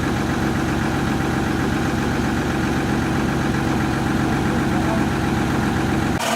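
A boat's engine running steadily at a constant speed; the sound starts and cuts off abruptly, about six seconds in.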